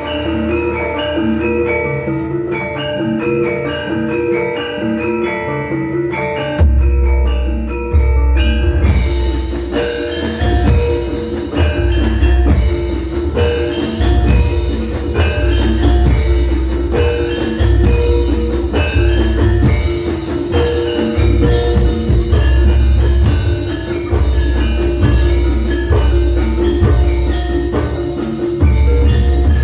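Javanese gamelan ensemble playing a gending: bronze mallet instruments ringing in a running, interlocking pattern. Heavy low drum beats join about six seconds in, and the sound fills out with bright high ringing from about nine seconds.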